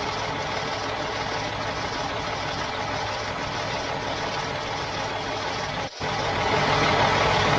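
Truck engine running steadily at idle. It cuts out for a moment about six seconds in and comes back a little louder.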